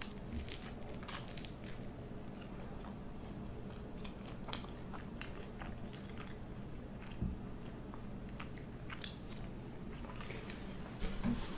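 A person biting and chewing crunchy food close to the microphone: a cluster of crisp crunches in the first second or two, then quieter, scattered chewing clicks.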